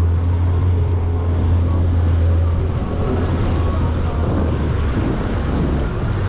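Jet ski engine running at idle speed: a steady low drone with water and wind noise, the drone easing off about three seconds in.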